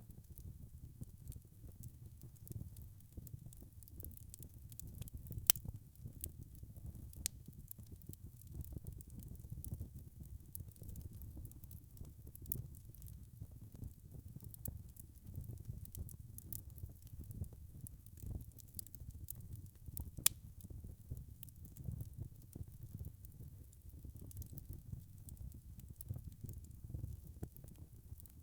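Wood fire burning: a steady low rumble of flames with frequent small crackles and pops, two sharp pops standing out clearly louder than the rest.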